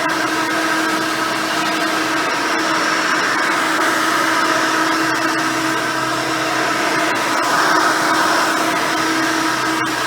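Hoover Elite 600 upright vacuum cleaner running steadily with its single-row brush roll, a continuous motor hum and airflow rush as it cleans carpet.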